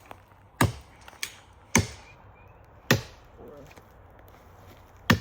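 A blade chopping into wood: four sharp strikes about a second apart, with a longer pause before the last one, and a lighter knock between the first two.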